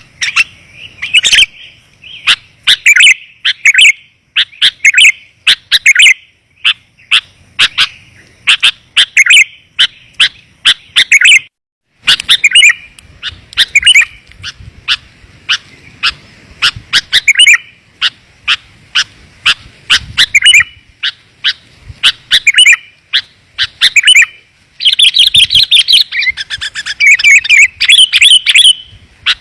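Sooty-headed bulbul song, loud and clear, played as a lure call: short bubbling phrases repeated every second or two, running into a denser burst of chattering near the end.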